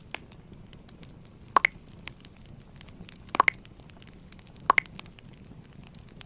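Fireplace fire crackling with scattered small pops, and three louder, sharper double clicks at intervals of about a second and a half.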